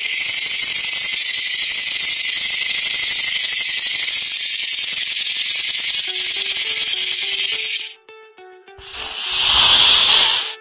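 Snake hissing: one long hiss of about eight seconds, then a shorter second hiss near the end, over soft background music.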